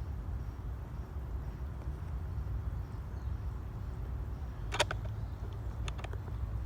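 Steady low outdoor rumble, with one sharp click about five seconds in and two fainter clicks a second later.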